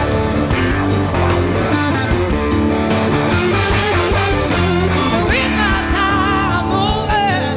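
Live rock band playing: electric guitar over bass and drums with a steady beat, and a wavering melodic line rising above the band in the second half.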